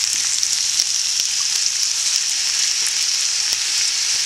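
Rice frying in hot olive oil in a pan: a steady sizzle with many small crackles.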